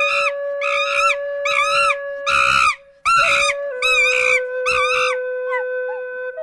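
An animal crying out repeatedly: about eight short, high, arching cries in quick succession, one slightly longer and louder in the middle. Soft flute music plays underneath.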